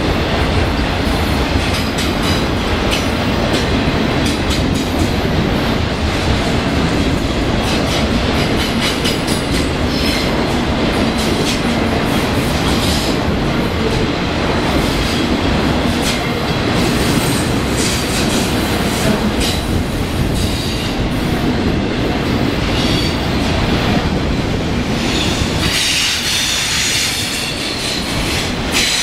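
Autorack freight cars rolling past at speed close by: a steady rumble of steel wheels on rail with rapid clicking over rail joints, and high-pitched wheel squeals that come and go, strongest near the end.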